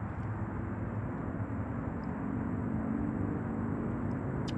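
Steady drone of distant highway traffic.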